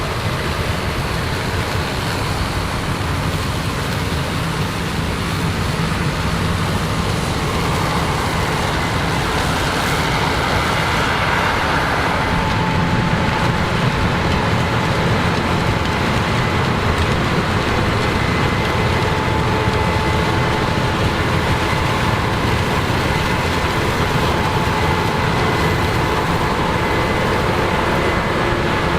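Combine harvesters and tractors running steadily under load, a dense low mechanical drone. About twelve seconds in, a thin steady whine joins and holds.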